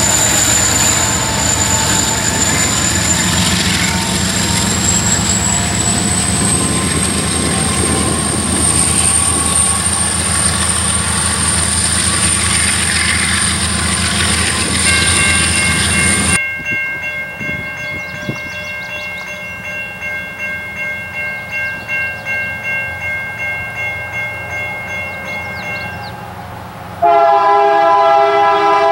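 A Union Pacific diesel freight train running loudly through a grade crossing, until the sound cuts off abruptly after about sixteen seconds. A quieter stretch follows with faint steady tones. Near the end a diesel locomotive air horn blows a loud chord.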